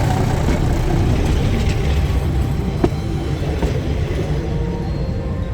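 Train rolling over and past a camera set on the track: a loud, steady heavy rumble with a sharp click about three seconds in, easing slightly toward the end.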